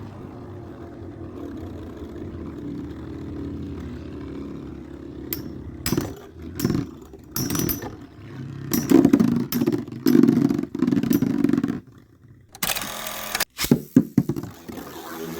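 Storm Pegasis 105RF and Burn Phoenix 135MS Beyblade spinning tops whirring against each other, breaking into a run of sharp clacks from about six seconds in, with the loudest clashes about nine to eleven seconds in and a few more hard hits near the end.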